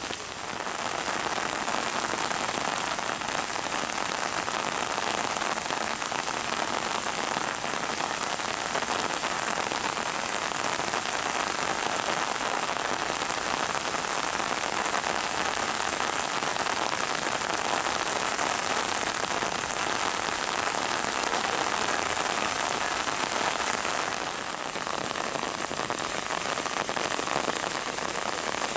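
Heavy rain falling steadily, with a brief, slight easing near the end.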